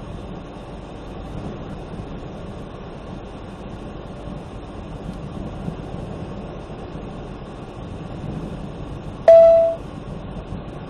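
Steady rumble of a car driving through a storm on the highway. About nine seconds in, a single short, very loud pitched beep cuts through.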